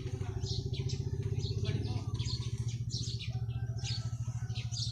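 Small birds chirping repeatedly in short, high calls over a steady, louder low engine sound of a vehicle running close by.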